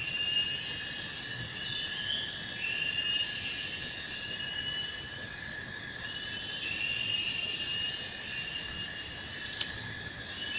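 Insects chorusing: a steady high buzz overlaid with shrill, slightly rising notes that come back every few seconds. A single sharp click sounds near the end.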